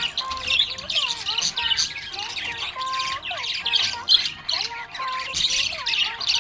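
Budgerigar chattering with a continuous stream of rapid chirps, mixed with lower, gliding whistled notes.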